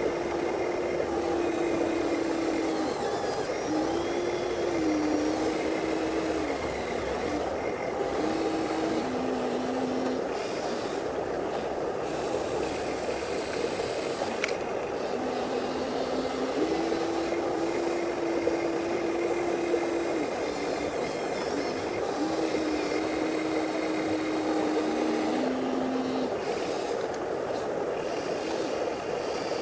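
Whine of a radio-controlled model excavator's or truck's small electric motors, coming and going in several stretches and stepping between a higher and a lower pitch as the load changes, over a steady rushing noise.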